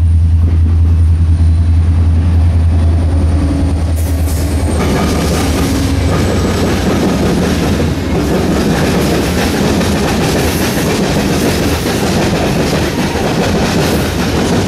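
Freight train passing: a low, steady diesel locomotive drone at first, then from about four and a half seconds in the cars roll by, their wheels rumbling and clacking on the rails.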